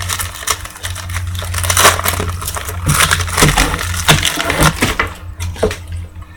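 Foil trading-card pack wrapper crinkling and rustling as the pack is opened and the cards are handled, in irregular crackles over a steady low hum.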